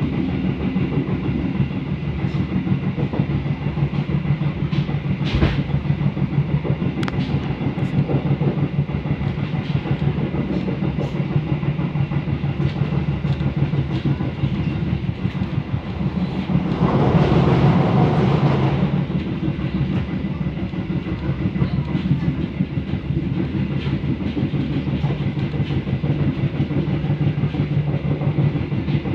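Passenger train running along the track, heard from on board: a steady rumble with wheels clattering over the rails and a few sharp clicks. A louder rushing swell lasts about two seconds, around two-thirds of the way through.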